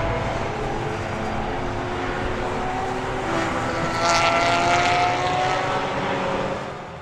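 A motor vehicle engine running steadily, its pitch rising slightly partway through, then fading out near the end.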